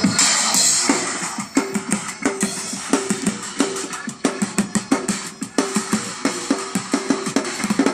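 Bucket drummer playing a fast rhythm on upturned buckets, barrels and drums, a dense run of quick strokes with a crash in the first second.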